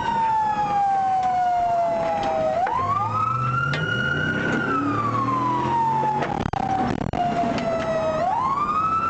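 Police car siren on a slow wail, the tone sliding down and then sweeping back up about two and a half seconds in, and again near the end. Underneath, a car engine rises in pitch as the vehicle speeds up.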